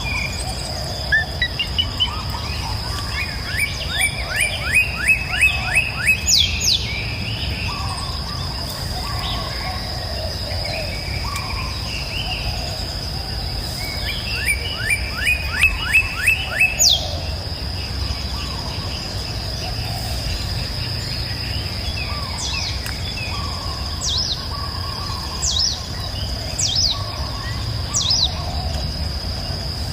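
Songbirds singing by a river. One bird twice gives a quick run of about seven falling notes, and short high downward-sweeping calls come near the end. A steady low rush of flowing water and a constant high-pitched tone run underneath.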